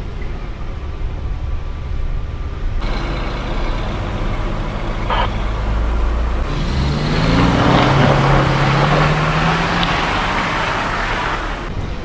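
Off-road vehicle engine running while driving. About halfway through it revs up with a rising pitch, then drops back to a steady lower note, with a louder rush of wind and road noise for several seconds.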